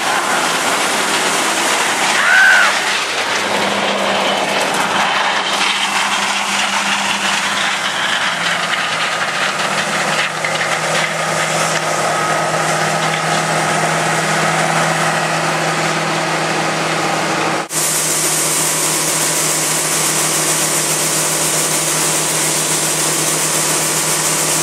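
Heavy harvest machinery running steadily: a loud diesel engine and mechanical drone with a few held tones. A brief whine comes about two and a half seconds in. The sound breaks off for an instant about eighteen seconds in, then carries on.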